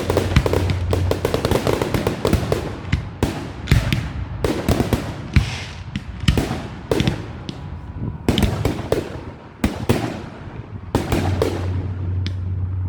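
Fireworks going off in a rapid barrage of bangs and crackles. The bursts are thick at first, thin out to separate louder bangs, then thicken again near the end.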